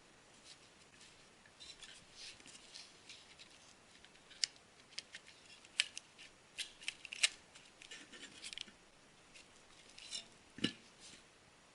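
Hands handling a Parrot Bebop drone's battery and connector: scattered small clicks, taps and rubbing of plastic parts, with a sharper knock near the end.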